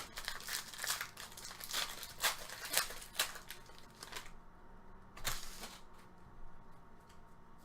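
Trading-card pack wrappers and cards being handled, crinkling and rustling in a quick run of crackles. It thins out after about four seconds, with one more rustle a second later.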